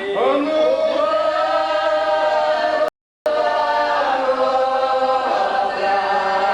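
Several voices singing a slow, drawn-out mock Orthodox funeral chant, the notes held long. The sound cuts out completely for a moment about three seconds in.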